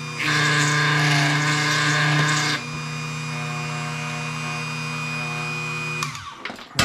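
Small electric drill running steadily while drilling out an acrylic bead's hole from 2 mm to 3 mm. It runs louder at first, drops to a lighter steady hum about two and a half seconds in, then is switched off and winds down near the end, followed by a sharp click.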